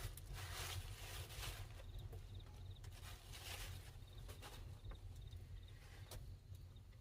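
Intermittent rustling and scraping, loudest in the first second and a half and again about halfway through, with a faint insect chirping in quick repeated pulses.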